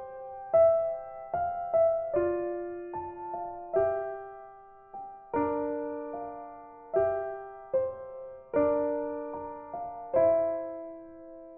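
Background music: a gentle piano melody, notes and chords struck every second or so and left to ring out.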